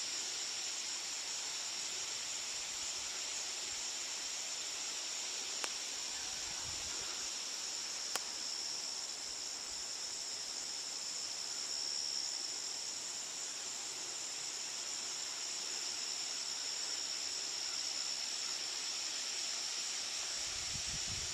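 Steady, unbroken high-pitched chirring of insects, two close pitches sounding together, with two faint clicks about six and eight seconds in.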